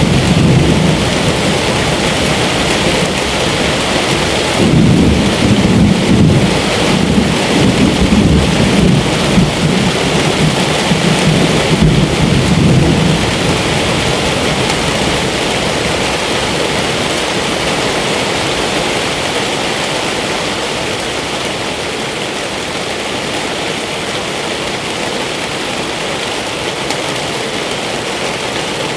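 Steady rain with rolling thunder rumbling at the start and again from about five to thirteen seconds in, then dying away to rain alone.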